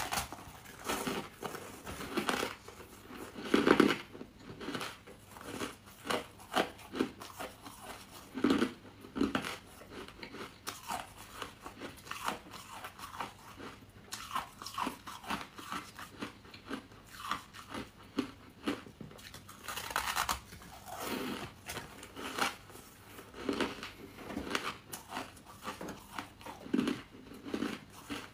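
Biting and chewing crunchy buckwheat chunks: a run of short, irregular crunches, with the loudest bite about four seconds in.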